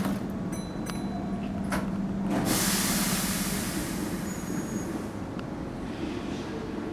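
Keihan 1000 series electric train at a standstill with a steady low hum and a few light clicks. About two and a half seconds in, a loud hiss of compressed air lasts for a couple of seconds: the air brakes releasing for departure.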